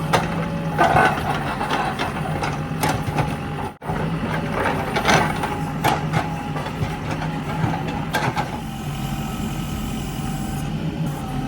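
Diesel engine of a Mahindra backhoe loader running steadily under work, with scattered sharp knocks and clanks from the machine at work; the sound briefly cuts out about four seconds in.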